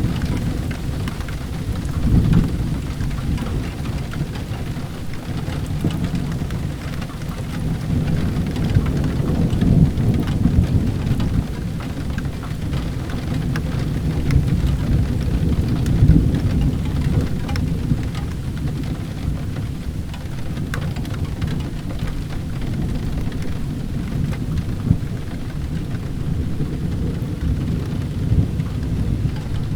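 Steady rain with a deep continuous rumble, and scattered sharp crackles from a wood fire burning in a fireplace.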